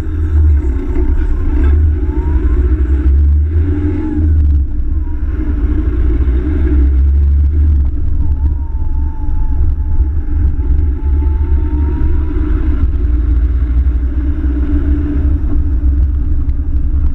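Land Rover Tomcat's engine and road noise as the car pulls away from traffic lights and drives on, a heavy, steady low rumble throughout.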